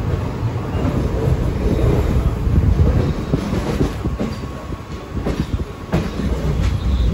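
Passenger train running on the track: a steady low rumble with irregular clacks of the wheels over rail joints.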